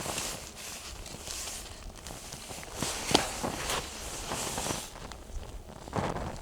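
Footsteps crunching in deep snow, uneven steps at irregular intervals, with wind rumbling on the microphone.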